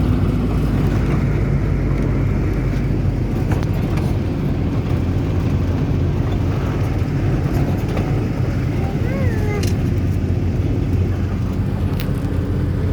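Steady low rumble of a car driving, heard from inside the cabin: engine and road noise with no change in pace.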